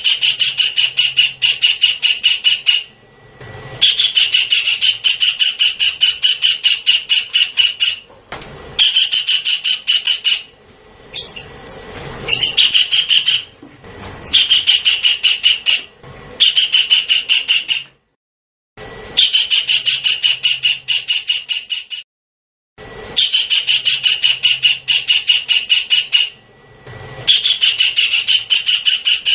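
Javan kingfisher calling: runs of quick, evenly repeated notes, each run lasting two to four seconds with short breaks between. One run near the middle turns into a wavering, squealing note.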